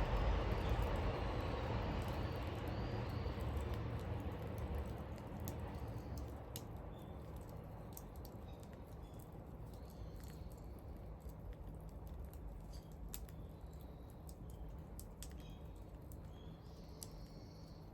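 Wood bonfire crackling, with sharp scattered pops and snaps. A low rumble fades away over the first several seconds, and there are a few faint bird chirps.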